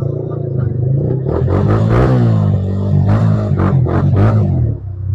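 Motorcycle engine running and revving, its pitch rising and falling several times, with voices faintly over it.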